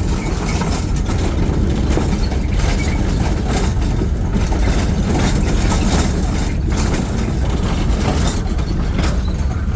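Steady road and wind noise from a moving vehicle, heaviest in the low pitches, with no clear engine note.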